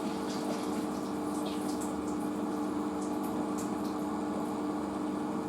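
Washing machine drain pump running with water pumping through it: a steady hum with a wash of water noise.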